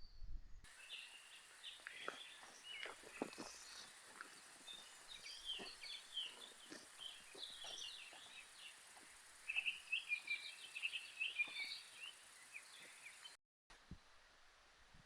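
Several birds chirping in quick, irregular calls over a steady high-pitched hiss, which cuts off suddenly near the end.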